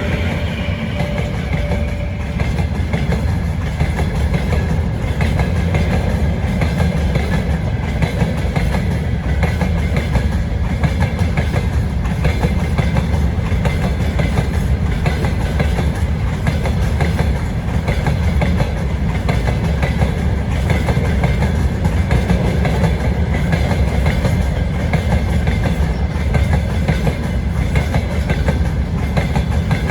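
Freight train wagons rolling past, a steady loud rumble with the wheels clattering over the rail joints. A faint ringing tone fades out in the first couple of seconds.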